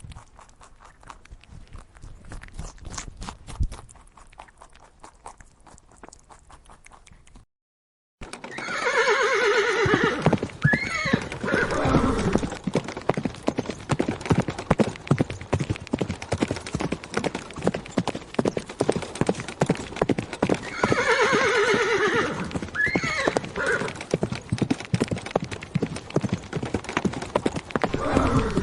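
Horse hooves clip-clopping in a rapid, continuous patter, with a horse whinnying: a long, wavering neigh that falls in pitch, heard twice. A quieter stretch of scattered clicks comes first.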